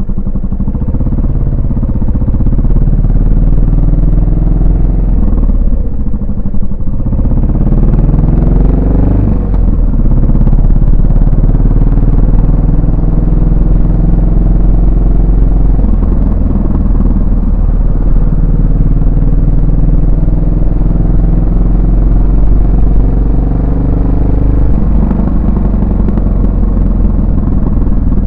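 Yamaha SR400's air-cooled single-cylinder four-stroke engine and exhaust while riding. The engine note dips briefly and then climbs as the bike accelerates about a quarter of the way in, then holds a fairly steady cruising beat.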